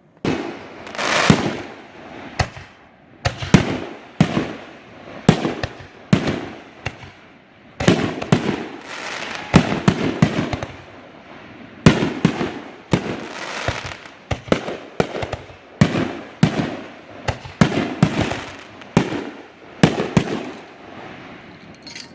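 Fireworks exploding in quick succession: more than twenty loud bangs, about one to two a second, each trailing off as it echoes. The barrage starts abruptly.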